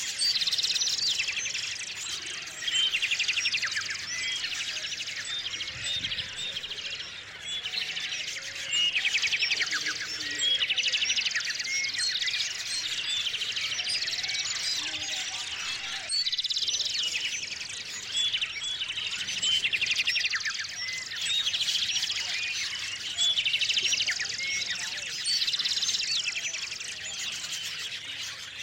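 Several small songbirds chirping and calling at once, with rapid trills about a second long that recur every few seconds over a running patter of short chirps.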